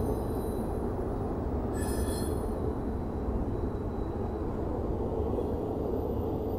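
Double-stack container freight train rumbling steadily across a steel railroad bridge. Brief high-pitched wheel squeals come about two seconds in.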